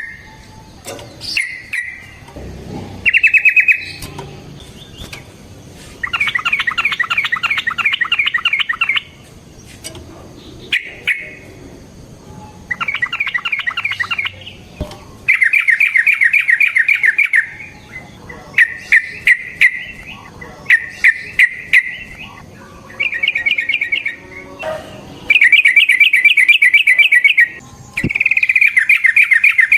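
Yellow-vented bulbul (trucukan) singing in repeated bouts of fast chattering trills, each one to three seconds long with short pauses between, some bouts fuller and lower than others. Sharp clicks are scattered between the bouts.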